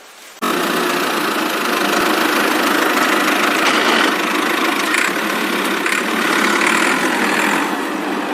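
A motor running steadily, with a dense rattling tone that cuts in suddenly about half a second in.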